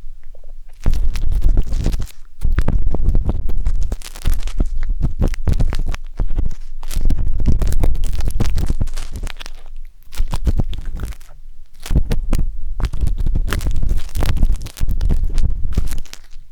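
Wooden tanghulu skewer scraping and rubbing inside the silicone ears of a 3Dio binaural microphone: close, scratchy crackling with a low rumble, in strokes broken by several short pauses.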